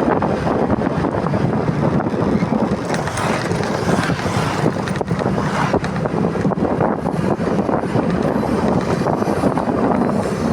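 Motorcycle being ridden, its engine running under steady wind rushing over the camera microphone.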